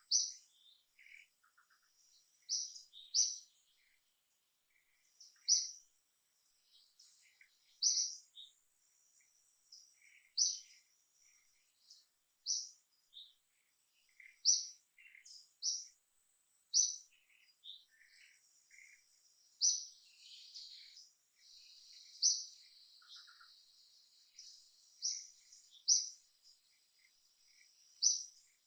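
A bird repeating a short, high chirp about every two to three seconds, with fainter, lower chirps from other birds in between.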